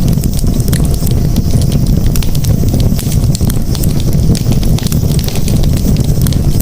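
Campfire crackling, with many quick sharp pops and snaps over a steady low rumble.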